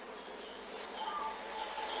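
Faint background hiss with soft, distant zebra dove notes: a faint held tone from about halfway, plus a few brief high chirps.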